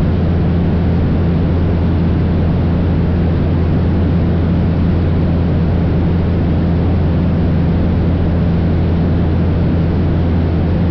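Cessna 172's piston engine and propeller droning steadily in cruise flight, a deep even hum over a wash of air noise.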